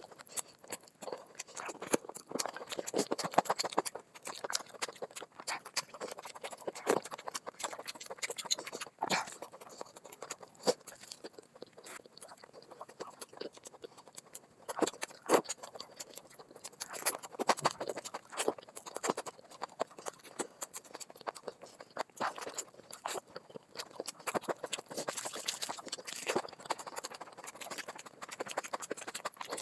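Close-miked eating sounds: wet chewing and mouth smacks from curry-soaked chicken and rice eaten by hand, with a dense, irregular run of short clicks and smacks.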